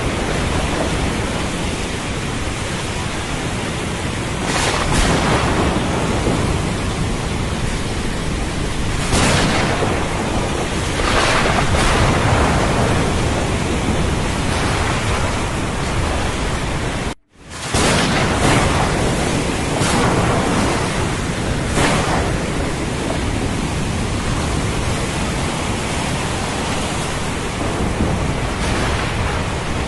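Thunderstorm rain with ocean surf: a steady, dense rushing noise with a deep rumble underneath, swelling into louder surges every few seconds. The sound cuts out for a moment a little past halfway.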